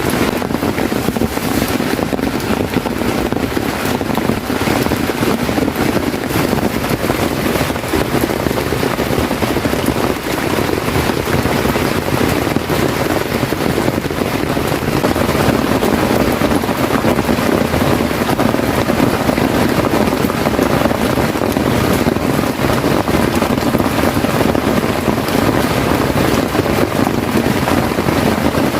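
Heavy rain falling steadily, a dense even noise with no break.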